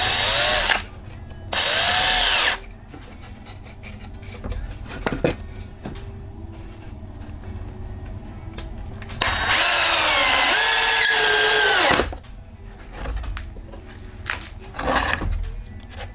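Power drill running in three bursts into pallet wood: two short ones at the start, then a longer one of about three seconds from around nine seconds in. Its whine sags in pitch under load. Light knocks and clatter of handling fall between the bursts.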